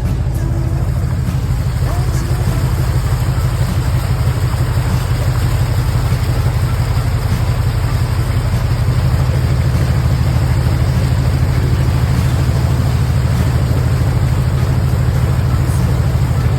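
Dentside Ford pickup truck's engine running steadily at low driving speed, a deep pulsing rumble with a steady hiss over it.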